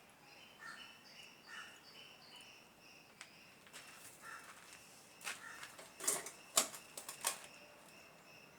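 A quick run of sharp clicks and knocks, loudest in a cluster about five to seven and a half seconds in, over steady high chirping of insects and birds.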